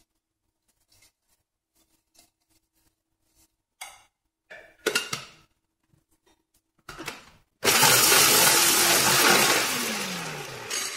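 Electric mini chopper chopping garlic cloves and parsley leaves in its plastic bowl. First come plastic clicks and knocks as the lid and motor unit are set in place. Then the motor runs loudly and steadily for about three seconds, easing off slightly before it stops near the end.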